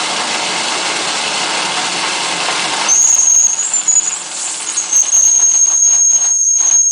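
Wilesco D10 model steam engine with a steady loud hiss of escaping steam, leaking where a screw at the bottom has come loose; about three seconds in its steam whistle starts blowing a single high, shrill, steady tone that carries on, briefly faltering once.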